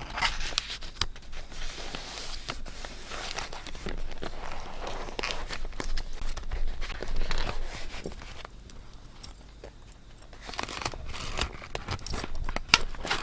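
Paper rustling and crinkling as scrapbook paper is handled, with small sharp taps and clicks; it goes quieter for a couple of seconds about two-thirds of the way through.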